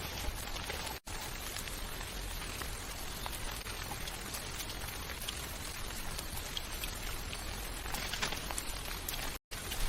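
Steady rain falling, an even hiss with scattered individual drops ticking. The sound cuts out abruptly for a moment twice, about a second in and near the end.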